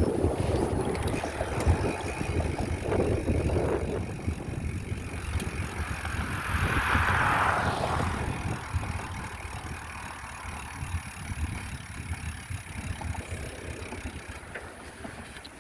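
Wind buffeting the microphone outdoors, an uneven low rumble, with a rushing hiss that swells and fades about halfway through.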